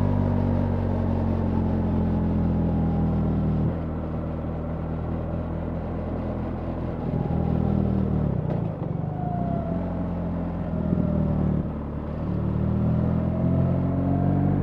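BMW R 1300 GS boxer-twin engine running under way. The engine note drops off about four seconds in, shifts in pitch around the middle, and picks up again near the end.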